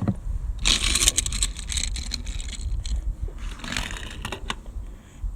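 Plastic toy car being rolled and scraped through a plastic toy car wash, with a low rolling rumble and a few short clatters, the loudest about a second in.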